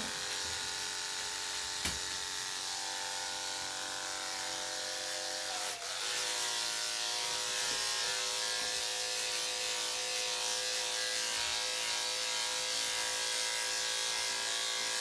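Electric dog grooming clippers fitted with a number 10 blade running steadily, shaving matted fur. There is a short click about two seconds in, and the hum dips briefly about six seconds in before running on.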